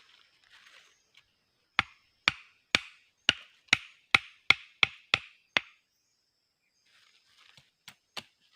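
About ten sharp chopping blows on wood in quick succession, coming a little faster toward the end, with a couple of fainter knocks near the end.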